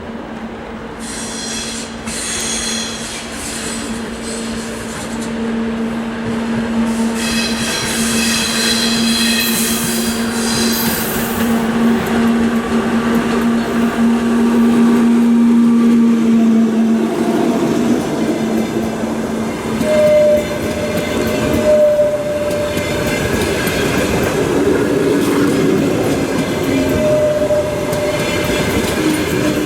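EP2K electric locomotive hauling a passenger train past, getting louder as it nears, with a steady hum over the first half. After that come wheel clatter and several short squeals as the train crosses the points from one track to another.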